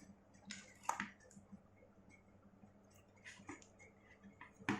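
A few sharp clicks and small taps, scattered irregularly, as an opening tool is run around the edge of an iPhone 6S Plus screen to pry its clips loose.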